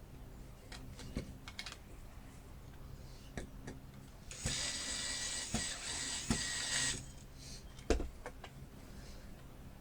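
Cordless drill driving a screw into wood for about two and a half seconds, with small clicks and knocks of handling the parts before and after.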